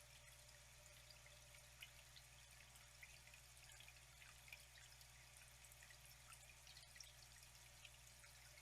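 Faint, steady flowing water: a soft even hiss with many small drips and trickles scattered through it.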